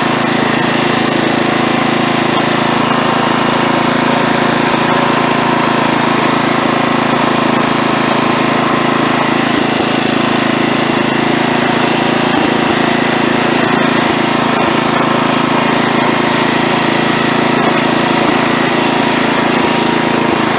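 Wheel Horse A-800 Ranger lawn tractor's small engine running at a steady speed while driving, with no change in pitch or level.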